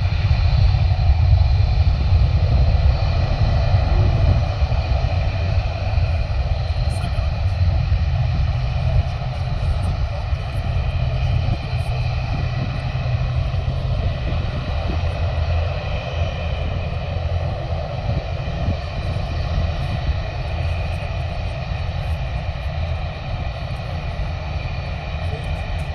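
Jet aircraft engines running: a steady low rumble with a high turbine whine above it, slowly fading.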